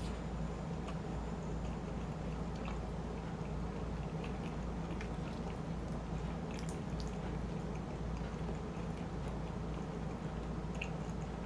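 A person chewing shrimp chili and rice close to the microphone: soft, wet mouth sounds with small clicks scattered throughout, over a steady low hum.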